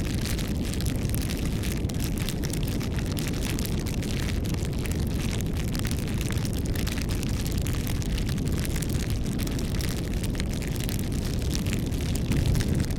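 Wood campfire burning: a steady low rush of flame with frequent small crackles and pops from the wood.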